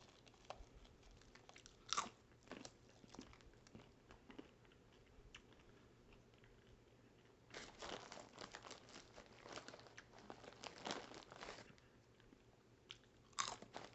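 Faint crunching of in-shell peanuts being cracked and eaten: scattered crackly clicks, a longer run of them in the second half.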